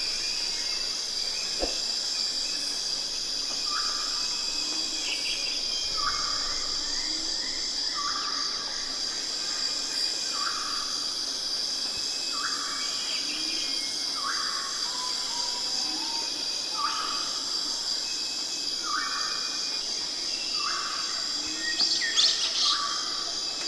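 A bird repeating a short call about every one and a half to two seconds, with a softer low note now and then, over a steady high-pitched drone of insects.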